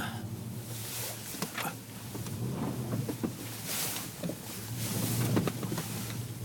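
Vehicle driving on a snow-covered road, heard from inside the cabin: a steady low engine hum with scattered knocks and rattles, and a brief rushing swell of noise about four seconds in.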